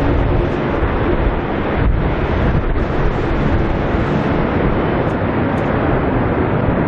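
Twin-engine jet airliner landing, its engine noise mixed with wind on the microphone in a loud, steady noise.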